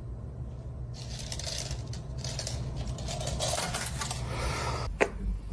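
Light metallic clinking and rattling, from about a second in until near the end, with one sharp click at the close. A low steady hum runs underneath.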